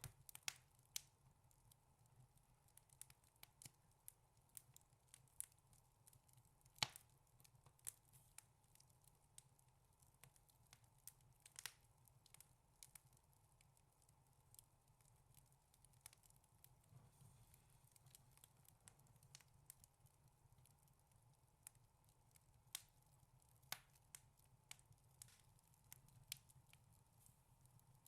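Wood fire crackling in a fireplace: irregular sharp snaps and pops, a few much louder than the rest.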